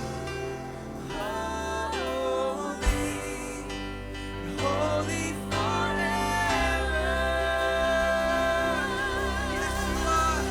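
Live worship band with synth, piano, bass, drums and guitar playing a slow passage, with a singer holding long, wavering notes without clear words. A single drum hit stands out about three seconds in.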